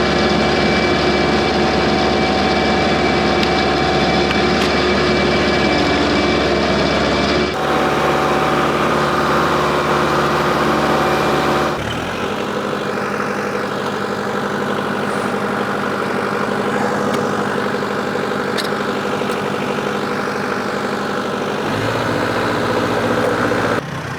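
New Holland WorkMaster 55 tractor's diesel engine running steadily, its tone shifting suddenly twice, about seven and twelve seconds in.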